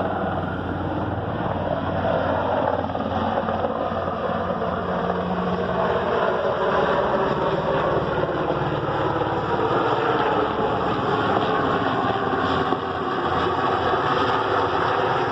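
Large helicopter in flight: steady, loud rotor and engine noise with a rapid low beat from the rotor blades.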